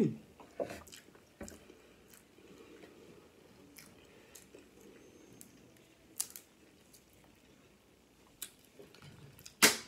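Close-up eating sounds: quiet chewing and mouth noises, with scattered small clicks from handling snow crab legs. A short hum of the voice at the start, and one loud sharp crack near the end.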